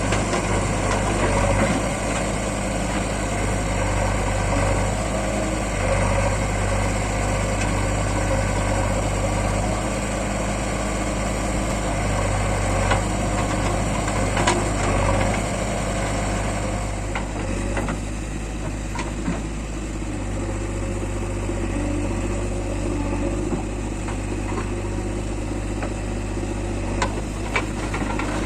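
Diesel engine of a JCB 3DX backhoe loader running steadily while it loads mud, with a few short clanks about halfway and near the end. The engine note eases a little about two-thirds of the way through.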